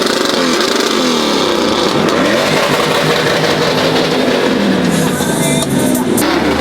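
Truck engines revving up and down, more than one at a time, their notes rising and falling across each other.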